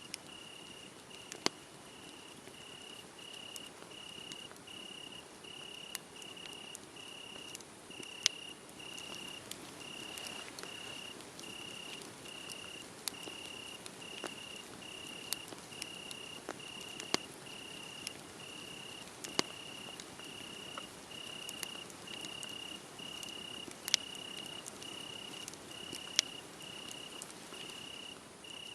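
A cricket chirping steadily at a high pitch, about one and a half chirps a second, over a wood fire crackling with sharp pops every second or two.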